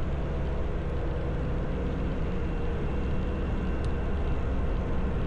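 Motorcycle running steadily under way, a low engine drone mixed with road and wind noise.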